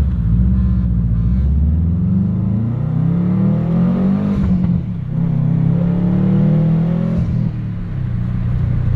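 Subaru engine with a freshly fitted aftermarket downpipe being revved twice and dropping back to idle near the end; the exhaust is really loud.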